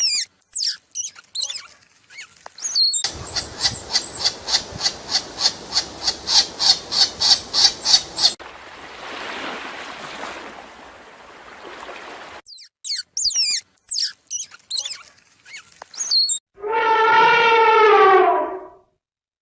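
A string of different animal calls in quick succession: high twittering chirps, then a rapid, even pulsing trill of about four beats a second for about five seconds, a stretch of hissing noise, more chirps, and finally one long pitched call that falls slightly at its end.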